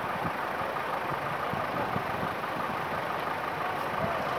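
Vehicle engines idling in stopped road traffic, a steady running sound under general street noise.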